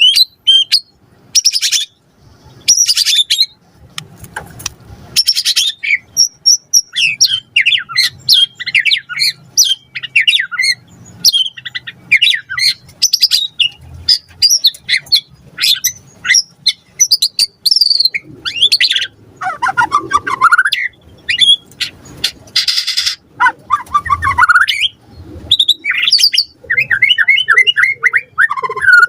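White-rumped shama (murai batu) singing a fast, varied song of chirps, whistles and trills, broken by harsh noisy bursts. A few sweeps rise from low to high, about two-thirds of the way through.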